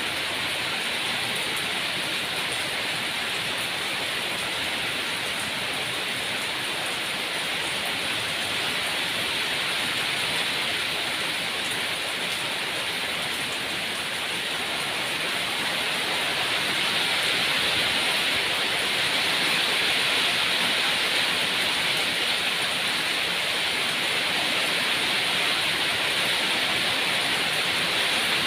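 Steady, even rain falling, a constant hiss that swells slightly about halfway through.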